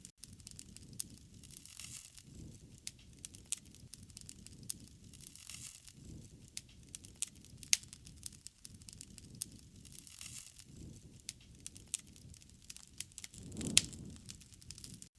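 Wood fire burning with steady crackling and sharp pops over a low rumble of flame, with a few louder pops about eight seconds in and again near the end.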